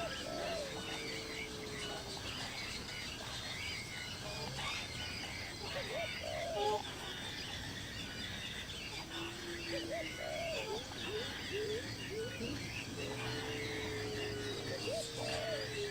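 Many birds chirping and calling at once, with scattered lower calls and a couple of longer held notes, one near the start and one near the end.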